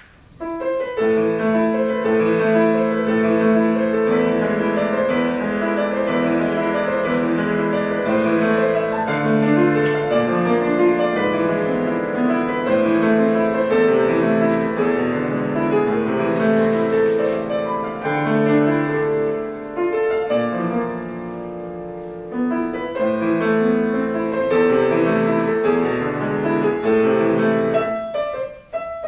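Solo piano playing a classical-style piece, starting right at the beginning, with a short break in the playing near the end.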